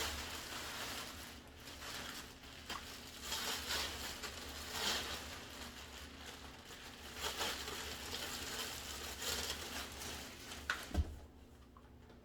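Packaging rustling and crinkling in uneven bursts as vacuum cleaner parts are unpacked and handled, with scattered light clicks and one sharp knock near the end.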